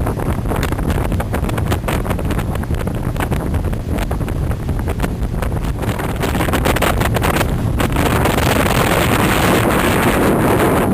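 High-speed passenger boat under way: the rush of engine and water with wind buffeting the microphone, gusty at first and steadier and a little louder from about six seconds in.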